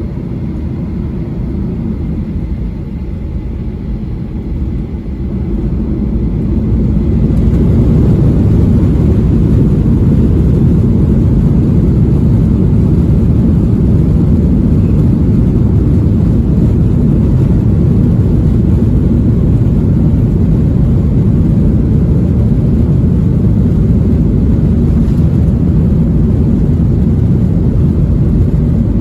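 Airliner taking off: a low rumble and engine noise that build up a few seconds in as thrust comes up, then hold steady and loud through the take-off run.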